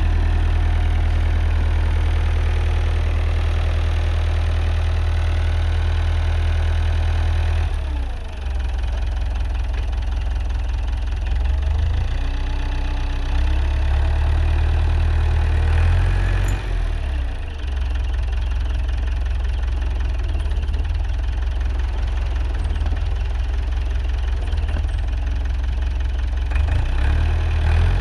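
Engine running steadily, then from about eight seconds in its speed and load keep changing, with short rising and falling tones over the engine drone.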